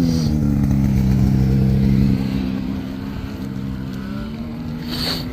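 Snowmobile engine running at high revs with a steady pitch, then dropping in loudness about two seconds in and carrying on lower.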